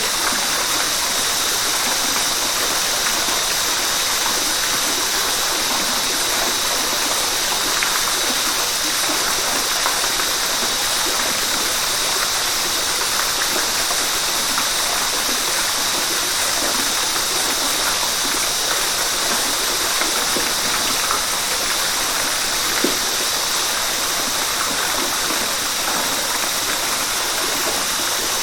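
River water rushing and splashing over rocks, a steady even rush that does not change.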